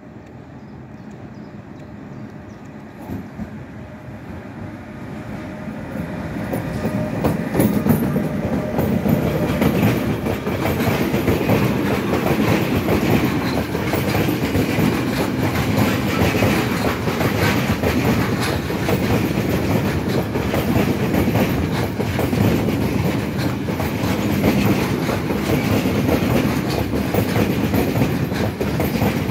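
Freight train passing at speed behind a Bombardier Traxx (E186) electric locomotive. It grows from a faint rumble to loud over the first seven seconds or so. A long string of open freight wagons then rattles steadily past, the wheels clattering clickety-clack over the track.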